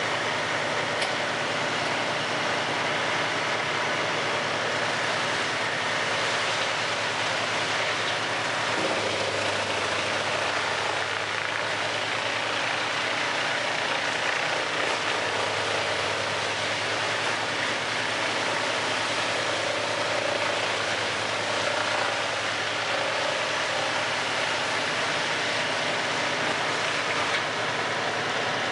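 Large industrial wood chipper running under load, its engine and rotating blades grinding a log into chips in a steady, dense noise. A low engine hum grows stronger about nine seconds in.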